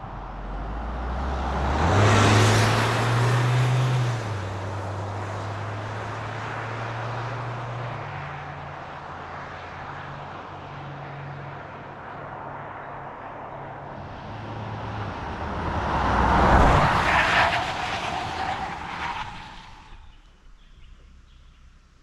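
Mahindra Scorpio's 2.2-litre turbo-diesel four-cylinder driving, its engine note stepping up and down in pitch. The sound swells loud twice, a couple of seconds in and again about three quarters through, then fades away near the end.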